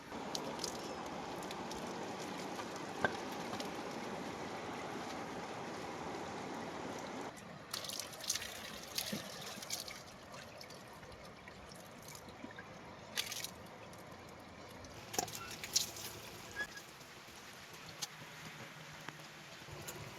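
Water spraying steadily onto a tractor as it is washed, cutting off about seven seconds in. Scattered splashes and clicks follow.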